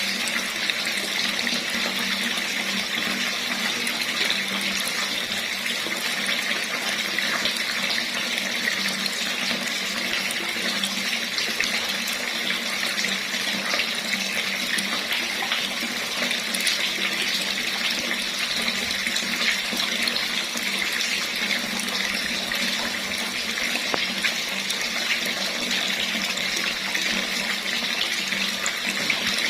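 Water running steadily from a tap in a continuous, even stream.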